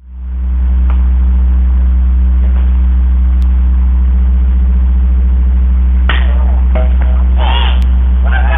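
A loud, steady low hum throughout, with a weaker higher tone above it. Short bursts of distant voices calling out come in from about six seconds in.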